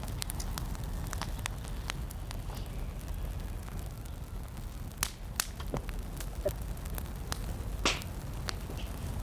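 Irregular crackles and sharp pops, with the loudest pop about 8 seconds in, over a steady low rumble of wind on the microphone.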